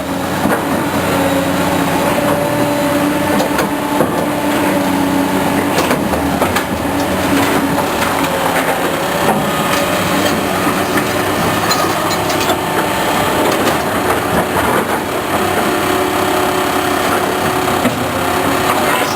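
Caterpillar heavy machine's diesel engine running steadily with a whining hum, amid scattered clanks and knocks as it loads a truck.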